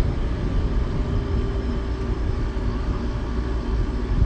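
A 2005 Gold Star 6500 BTU window air conditioner running: a steady low hum and rumble from its compressor and fan.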